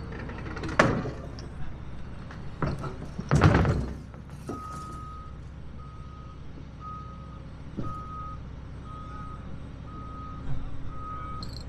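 Heavy machinery running with a steady low rumble. A few loud knocks come in the first four seconds, the loudest about three and a half seconds in. Then a backup alarm starts beeping steadily, about three beeps every two seconds.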